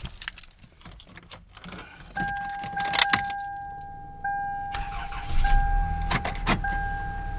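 Toyota Camry cold start after sitting at least 36 hours in the cold: keys rattle, a dashboard warning chime dings repeatedly, then the engine catches about five seconds in and settles into a steady idle with no trouble.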